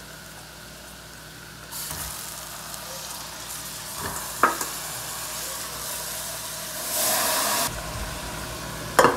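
Garlic and onion frying in margarine in a saucepan: a steady sizzle that comes in about two seconds in and grows louder for a moment near the end. About four seconds in there is a short knock as a block of ground beef is tipped from a steel bowl into a second pan.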